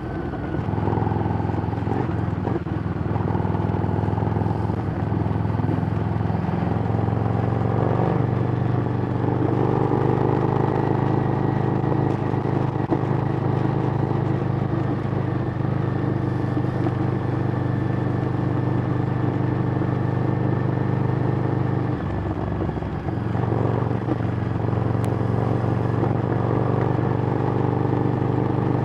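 Harley-Davidson Street Rod's V-twin engine running through a Screamin' Eagle exhaust as the motorcycle is ridden, holding a steady note. About 22 seconds in the note briefly drops lower, then picks back up.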